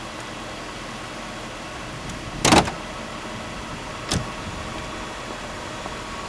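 A loud, sharp clunk about two and a half seconds in and a lighter click about four seconds in, both from the body of a car, over a steady low hum.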